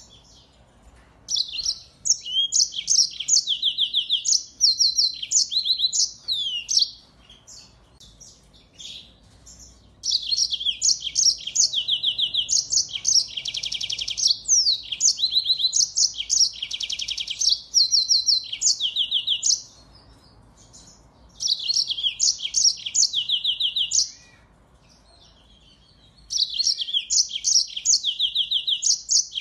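Finch song: four bouts of fast, high twittering phrases and rapid even trills, broken by pauses of a few seconds.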